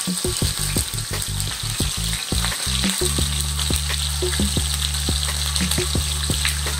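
Salmon fillets searing in hot olive oil in a cast-iron skillet under a mesh splatter screen: steady sizzling with a dense, irregular crackle of spitting oil, over a steady low hum.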